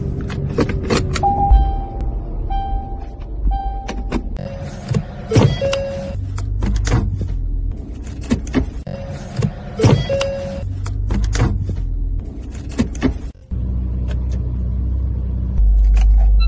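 Car interior sounds: repeated sharp clicks and clunks from the gear selector and controls over a low engine rumble, with short beeps between them. The rumble grows louder about three-quarters of the way through.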